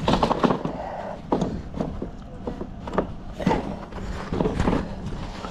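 Irregular wooden knocks and clicks, about one every half second to second, from beehive boxes and frames being handled and set down. A low steady rumble runs underneath.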